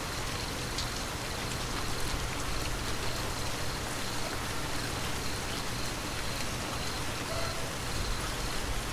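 Steady rain falling, an even hiss of drops with no thunder, and a faint high pulsing trill running under it.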